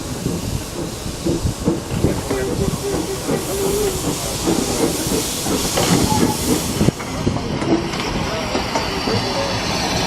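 Steam engine letting off steam in a loud hiss that cuts off suddenly about seven seconds in, over a low rumble.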